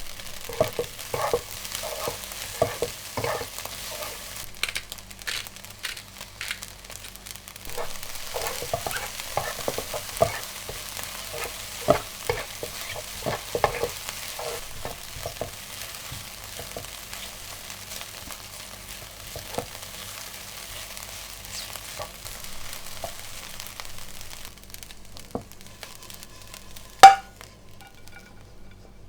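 Food sizzling in a frying pan while being stirred, with frequent clacks of the utensil against the pan that thin out later. Near the end comes one sharp, loud knock on the pan.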